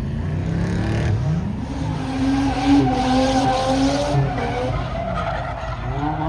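Car spinning its tyres: the engine revs up about a second in and is held high while the tyres squeal and skid, then the revs ease off near the end.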